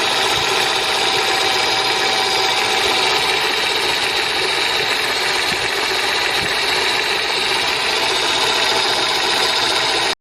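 Brushed electric motor salvaged from a pressure washer, a 110 V AC motor here run on 24 V DC, running steadily with an even hum and whine. It cuts off suddenly near the end.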